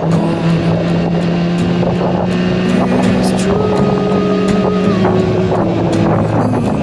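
Yamaha R1-Z's two-stroke parallel-twin engine running steadily while the motorcycle is ridden, with wind noise on the microphone.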